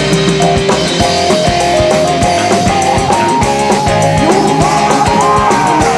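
Instrumental break of band music with a steady drum beat and a melodic lead line, without singing.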